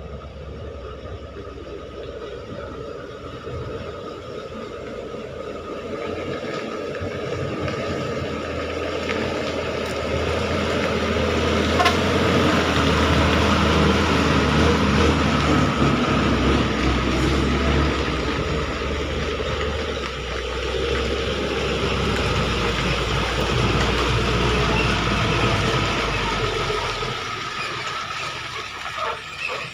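Truck engine labouring under load as the truck climbs a slippery muddy incline, growing louder as it comes close, staying loud for a long stretch, then fading near the end.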